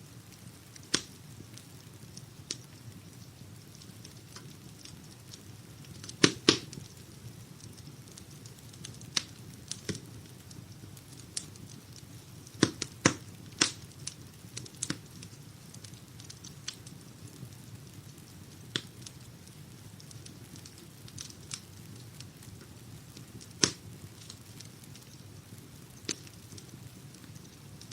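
Wood fire crackling in a fireplace: a steady low rustle of burning with sharp pops and snaps at irregular intervals, several coming close together about a quarter of the way in and again around halfway.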